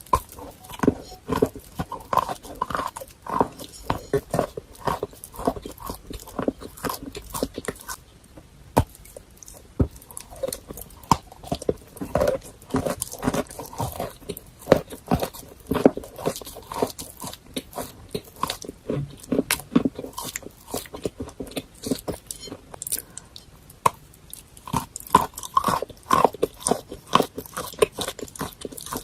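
Close-miked mouth sounds of chalk with paste being bitten and chewed: a dense run of sharp crunches and crackles, with a sparser stretch about eight to ten seconds in.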